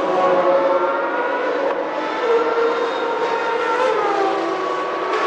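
Several Formula One engines running together at high revs, with overlapping tones that hold and slowly slide in pitch.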